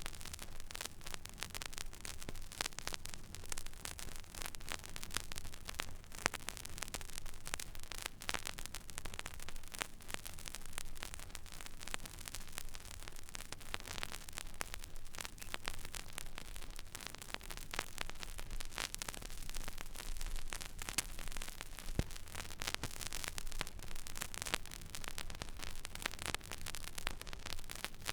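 Stylus tracking an empty vinyl record groove: steady surface hiss with dense, irregular fine crackles and pops, over a low hum.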